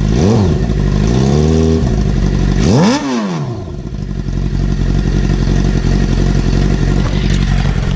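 Straight-piped motorcycle engine, slip-on muffler removed, revved in quick blips: a short blip at the start, a brief held rev about a second in, and a bigger rev about three seconds in. It then settles back to a steady, loud idle.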